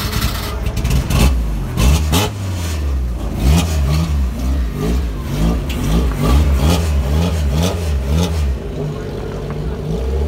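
Saloon stock car's engine running and being blipped over and over, the revs rising and falling about twice a second, with clattering knocks, as the car moves off. The blipping stops near the end and the engine settles to a steadier note.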